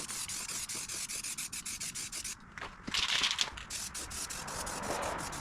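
Rapid, repeated scraping strokes, a hissy rubbing sound several times a second, louder for a moment about three seconds in.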